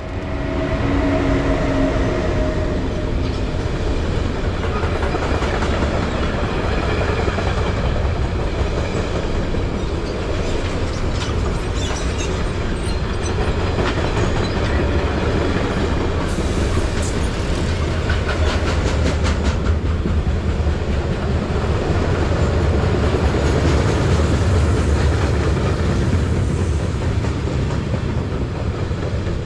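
A train passing close by: a steady rumble of wheels on the rails, with a run of regular clicks of wheels over rail joints about midway. A couple of steady tones fade out in the first few seconds.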